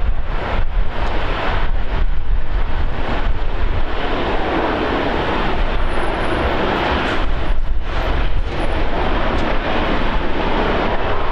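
Airliner engine noise, a steady broad rush, with gusts of wind buffeting the microphone underneath.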